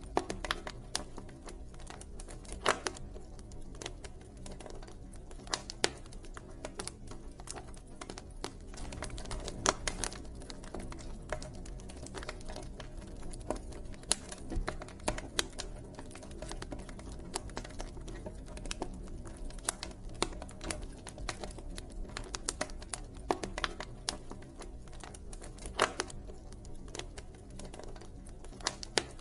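Campfire crackling: irregular sharp pops and snaps of burning wood, a few much louder than the rest, over a steady low rumble.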